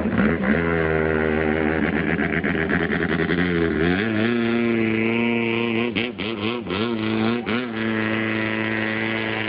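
Drag racing boat engine running at a steady pitch, stepping up a little about four seconds in, then blipped up and down several times before settling back to a steady run.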